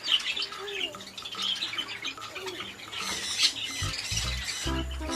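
Birds chirping and squawking in short, scattered calls. About four seconds in, a low pulsing sound joins them.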